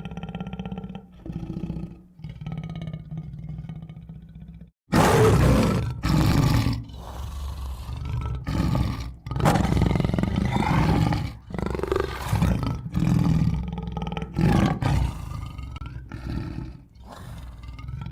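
Tiger roaring and growling: a series of loud roars starts about five seconds in, after a quieter stretch.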